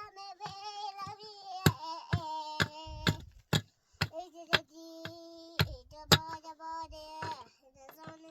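A high voice singing long, wavering held notes, with sharp knocks at irregular intervals, a few at a time roughly half a second apart, stopping after about six seconds.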